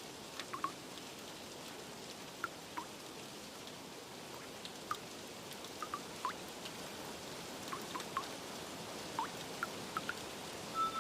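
Steady rain with scattered single drips landing at irregular moments. Notes of soft music come in right at the end.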